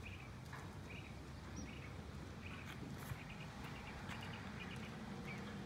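Small birds chirping in short calls several times, over a steady low background rumble, with one sharp click about three seconds in.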